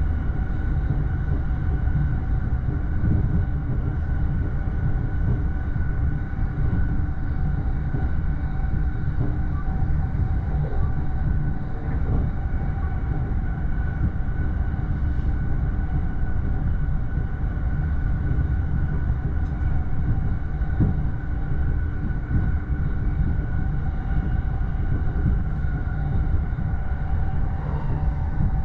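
Running noise inside a JR East E231 series commuter train cruising at speed, heard from the upper deck of a bilevel Green car: a steady low rumble of wheels on rail with faint steady tones above it.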